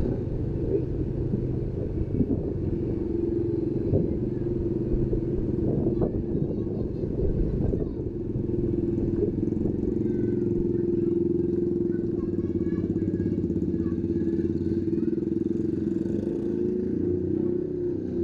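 Motorcycle engine running steadily while riding along, a constant hum with low rumble underneath.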